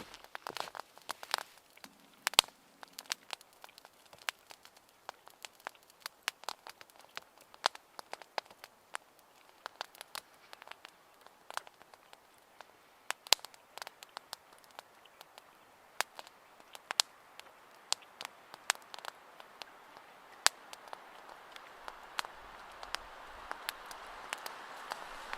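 Wood fire crackling, with irregular sharp pops and snaps. A steady hiss grows louder over the last several seconds.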